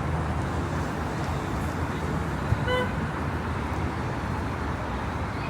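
Steady urban background noise with a single short horn toot about halfway through.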